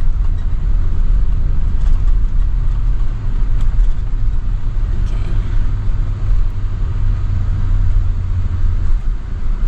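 Road noise and engine rumble inside a moving vehicle's cabin, a steady low drone.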